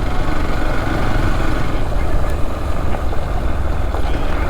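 Motorcycle engine running steadily as the bike is ridden, a constant low rumble mixed with road and wind noise.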